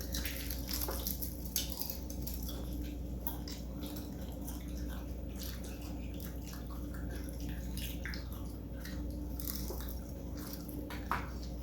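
People biting and chewing crispy fried chicken, irregular crunches and wet mouth sounds, over a steady low hum.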